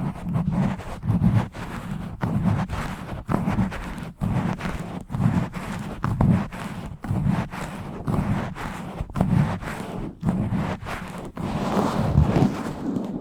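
Fingers scratching and rubbing fast and hard directly on a bare microphone: rough, deep scraping strokes with sharp clicks, repeating unevenly about once a second.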